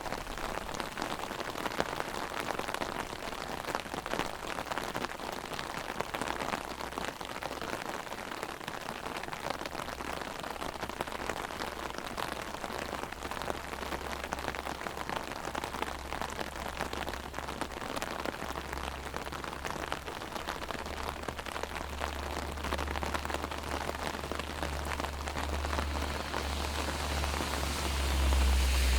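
Heavy rain drumming steadily on an umbrella overhead, a dense patter of drops. A low rumble swells in the last few seconds.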